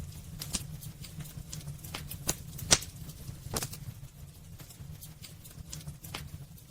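Wood fire crackling in a fireplace: irregular sharp pops and snaps over a low steady rumble, with one louder pop near the middle.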